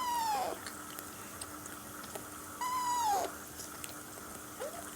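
Alexandrine parakeet chick giving two drawn-out begging calls, each arching and falling in pitch, about two and a half seconds apart, as it is offered hand-feeding formula.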